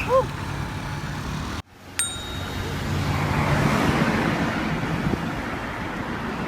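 Low rumble of road traffic, then after a sudden cut a single bicycle bell ding about two seconds in. Steady wind noise on the microphone follows as the bicycle rides off.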